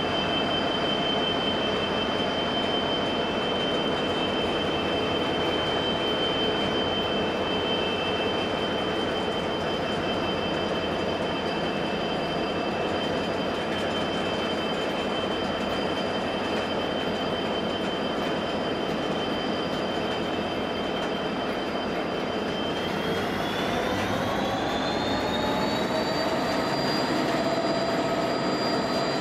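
A slow-moving coal train hauled by 90 class diesel locomotives, with EMD 16-cylinder two-stroke engines, passes with a steady rumble of engines and wheels. A high steady whine runs over it and rises in pitch about 23 seconds in as the coal hoppers roll by.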